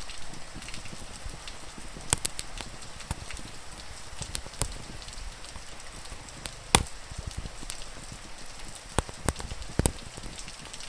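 Wood fire crackling, with scattered sharp pops, over a steady hiss of rain.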